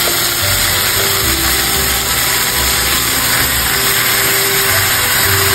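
Onion, garlic and fresh spinach sizzling steadily in hot oil in a frying pan, stirred with a spatula.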